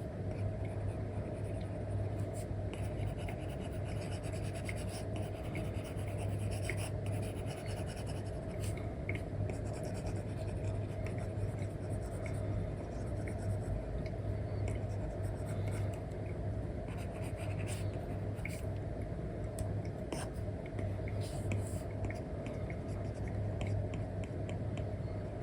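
Apple Pencil with an Elecom nib scratching and tapping in short strokes across an iPad screen covered with a paper-like film, over a steady low hum.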